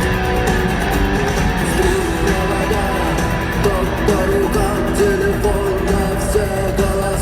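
Live rock band playing at a concert, heard through an arena's echo, with a wavering melody line over a steady band backing.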